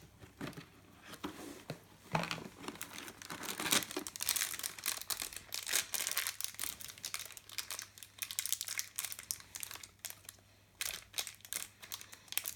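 Small plastic accessory packets from an LOL Surprise toy crinkling and tearing as they are opened by hand, in irregular bursts with a short lull about eight seconds in.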